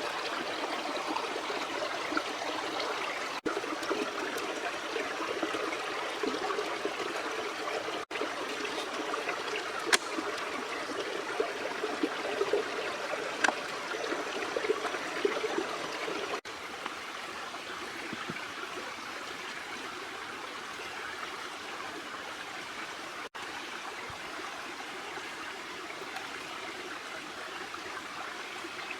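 Stream water flowing and trickling in a steady wash, with a few light clicks. It briefly cuts out a few times and is a little quieter in the second half.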